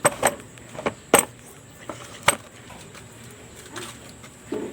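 About five sharp, separate clicks and knocks in the first couple of seconds, from hands and tools working at the motorcycle's battery connections, the strongest just after one second. The engine is not running.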